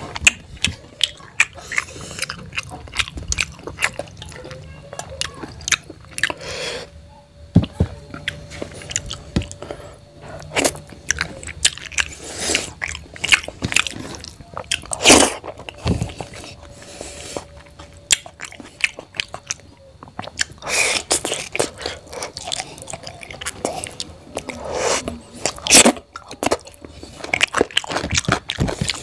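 Close-up chewing and wet lip smacking of hand-eaten rice and scrambled egg, with many sharp clicks and a few louder mouthfuls, as fingers work the food on a steel plate.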